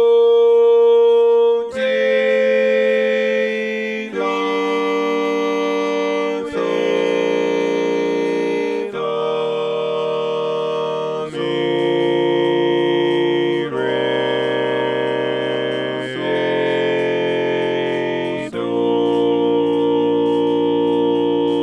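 Four-part harmony chords with steady, organ-like tones, each held about two and a half seconds before the next. The lowest part steps down the scale chord by chord while the top note holds.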